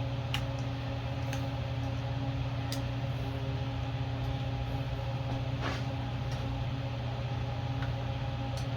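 Steady machine hum with several fixed tones, like a fan running, under a few faint short clicks from handling parts.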